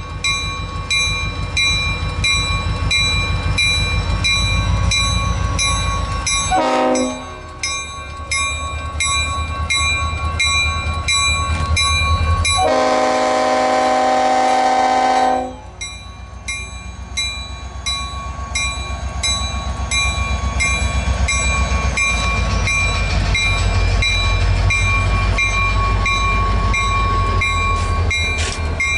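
Diesel freight locomotives running past a grade crossing, their engines a steady low rumble. The lead locomotive's horn gives a short blast about seven seconds in and a long blast of nearly three seconds around thirteen seconds in. A crossing bell rings in even strokes throughout.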